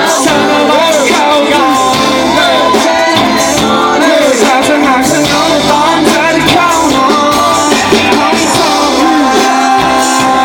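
A band playing a pop song with a singer's voice over it, loud and continuous.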